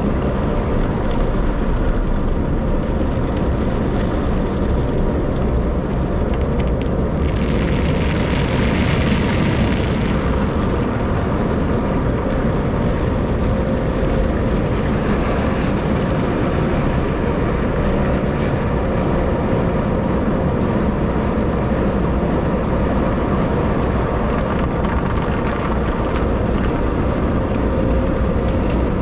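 Car wash machinery running with a steady loud roar and a faint steady hum, with a burst of hissing spray about seven to ten seconds in.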